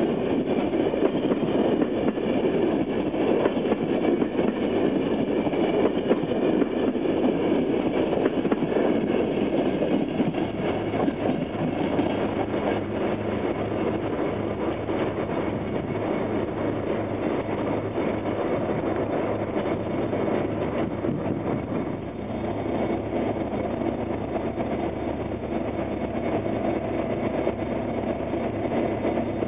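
A passenger train rolling past over the rails with a steady clatter of wheels, slowly growing quieter as it draws away. About 22 seconds in it gives way to the steady, low running of idling diesel locomotives.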